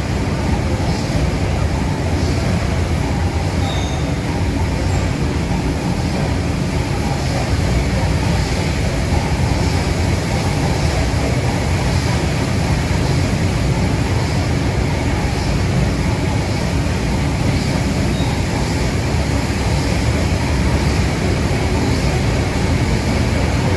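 Train running along the rails, a steady rumble of the wheels and carriage.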